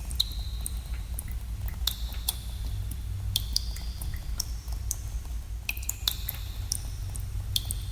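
Water drops falling irregularly into pools in a cave, each a sharp plink, many with a short ringing tone, over a steady low rumble.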